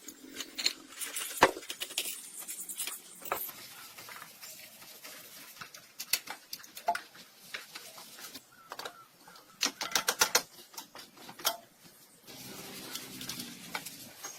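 Irregular sharp clicks and metallic taps of hand tools and parts being handled during a Toyota engine rebuild, with a quick run of clicks about ten seconds in.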